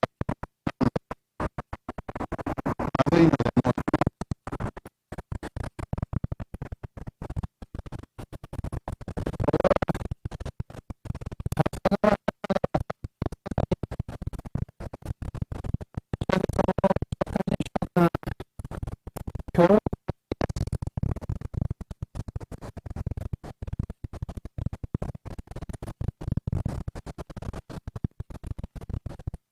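Strong wind buffeting the microphone of a bike-mounted camera, a choppy rumbling noise that cuts in and out many times a second.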